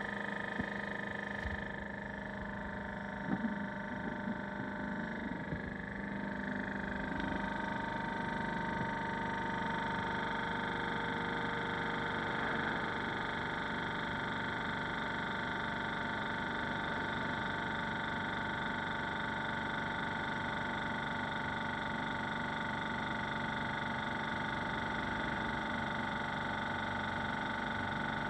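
Hitachi EC1443H high-pressure air compressor running steadily, a continuous motor-and-pump drone with several steady tones. A few brief knocks come in the first few seconds.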